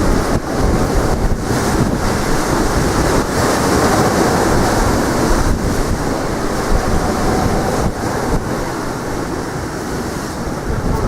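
Strong wind buffeting the microphone with a low, gusting rumble, over the noise of waves breaking on the shore.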